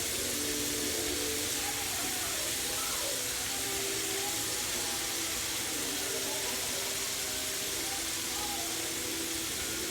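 Chicken wings deep-frying in hot oil, a steady sizzle that does not let up.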